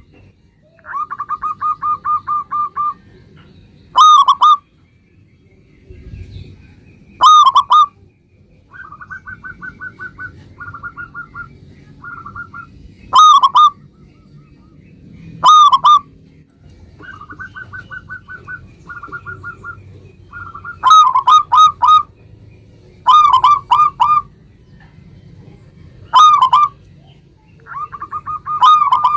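Zebra dove (perkutut) cooing: loud, short coo notes in groups of one to four, alternating with softer rapid trilled runs of notes at about the same pitch.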